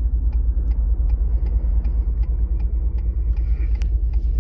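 Ford pickup truck running, a heavy steady low rumble with a light tick repeating about two to three times a second.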